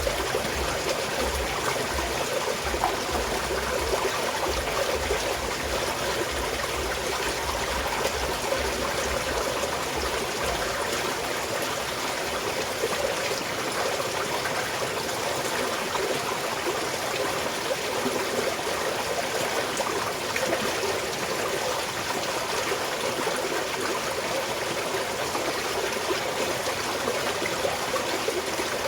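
A small mountain stream trickling and splashing steadily over rocks. A low rumble sits underneath it for the first ten seconds or so, then fades away.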